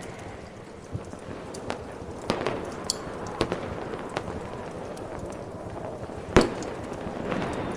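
Fireworks going off: scattered sharp bangs and cracks, about seven in all, the loudest about six and a half seconds in, over a steady hiss.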